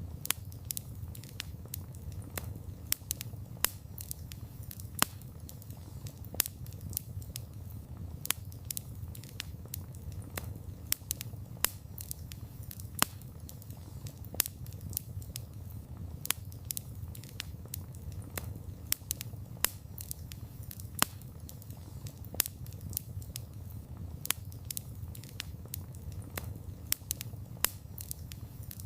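Wood campfire burning: a steady low rush of flames with sharp, irregular crackles and pops, several a second, as the burning wood splits and sparks.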